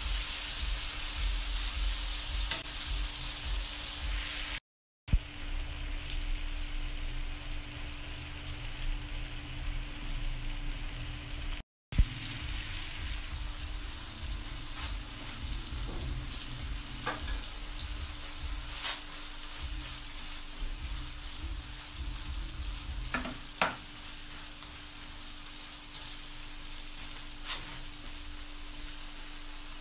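Diced chicken and vegetables sizzling and frying in a non-stick frying pan, stirred with a spatula that gives a few light clicks against the pan. The sound drops out briefly twice.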